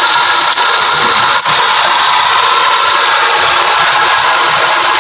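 Hyundai Accent engine running steadily with its alternator, just rebuilt with new bearings, back on and charging; a steady high-pitched whine sits over the engine noise.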